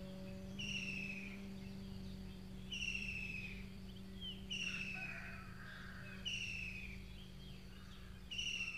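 A bird repeats a short, descending whistled call about every two seconds over a steady low hum.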